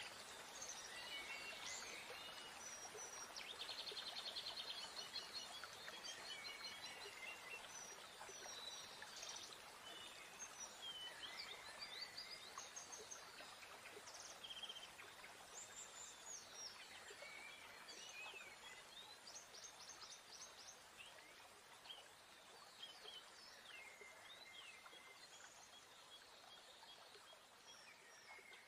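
Faint morning birdsong: several small birds chirping and whistling over a soft steady hiss, with a rapid trill about four seconds in. The whole gradually fades out near the end.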